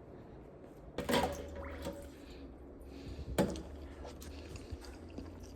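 Kitchen utensils being handled while cooked potato is worked for mashing: two sharp knocks, about a second in and again about three and a half seconds in, amid soft wet squishing.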